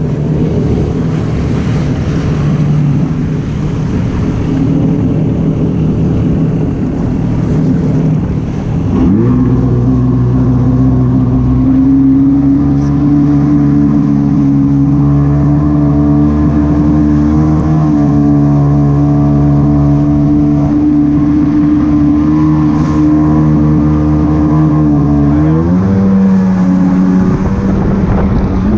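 Jet ski engine running. About nine seconds in it revs up into a steady drone, and near the end it rises in pitch again.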